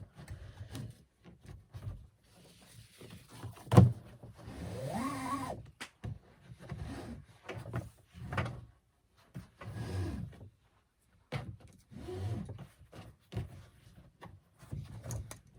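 Nylon webbing being pulled through a kayak's hip pads and back band: rubbing and scraping with scattered knocks against the plastic boat, one sharp knock about four seconds in followed by a short squeak.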